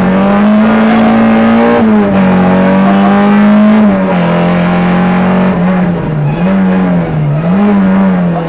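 Peugeot 205 Rallye's four-cylinder engine heard from inside the cabin, running loud under hard acceleration. The revs climb and fall back twice, about two and four seconds in, then dip and pick up again twice and ease down near the end.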